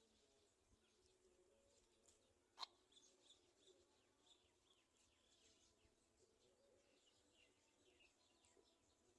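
Near silence with faint, scattered high bird chirps through most of it, and a single sharp click a little over two seconds in.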